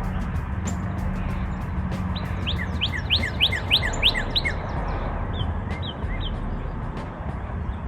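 A songbird singing: about two seconds of quick, clear, rising notes, then three shorter notes a second or so later.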